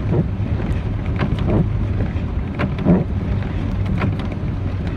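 Four-wheel-drive vehicle driving through deep snow, heard from inside the cab: a steady low engine hum under a constant wash of road and snow noise, with short thuds about every second and a half.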